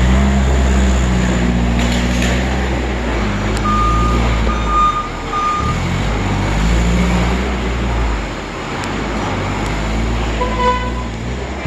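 Forklift engine running and changing speed, with three short beeps from its reversing alarm in the middle and a brief tone near the end.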